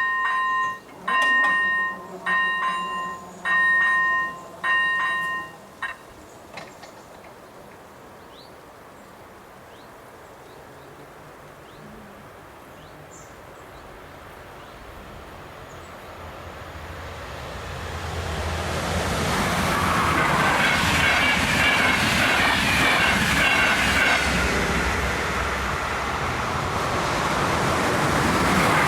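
ZV01 electronic level-crossing bell sounding a two-tone ding about once a second, stopping about six seconds in. After a quieter stretch, a train comes through the crossing, growing louder from about fifteen seconds in and passing loudly with clattering wheels on the rails.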